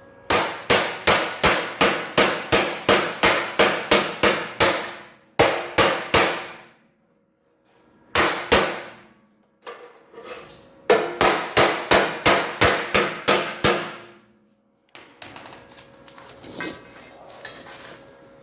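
Hammer blows on steel frame bracing, in quick ringing runs of about three strikes a second: a long run, a few separate blows, then a second long run, with lighter metal clatter near the end. It is the sound of a brace being beaten into shape to fit the frame.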